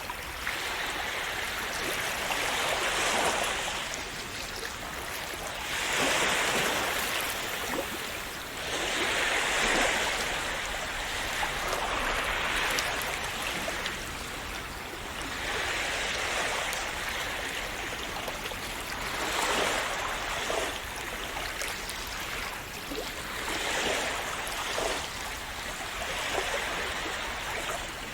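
Calm sea waves washing and splashing in, swelling and easing again every three to four seconds.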